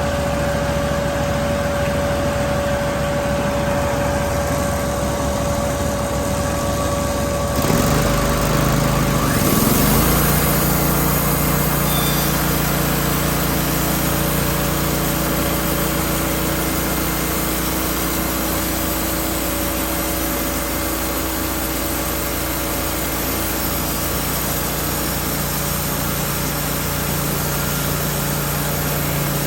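Wood-Mizer LT15 band sawmill's engine running steadily. About a quarter of the way in the sound gets louder and rougher for a couple of seconds, then settles into a new steady pitch with more hiss over it.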